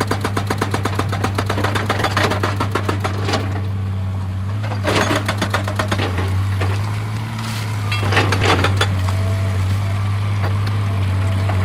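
Excavator diesel engine running steadily, with a hydraulic rock breaker hammering stone in a fast, even stream of blows, about ten a second, that stops about three seconds in. Short bursts of clattering follow about five seconds and eight seconds in.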